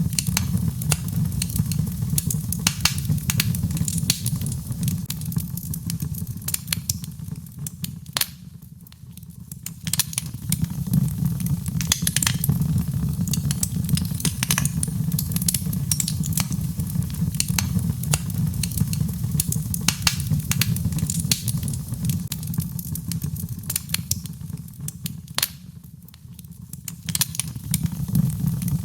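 Birch logs burning in a fireplace, crackling with frequent sharp pops over a steady low rumble. The crackling thins out and quietens briefly twice, about nine seconds in and again near the end.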